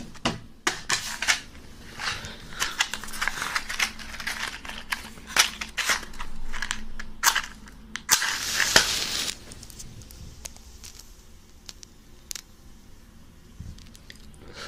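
Close rustling and crinkling handling noise with many sharp clicks and snaps, busiest over the first nine seconds, then fainter with only a few scattered clicks.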